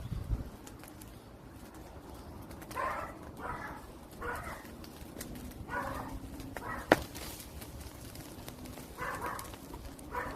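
Wood fire crackling with faint scattered ticks and one sharp loud pop about two-thirds of the way through. A series of short animal calls sounds in the background: about five in a row starting near a third of the way in, then two more near the end.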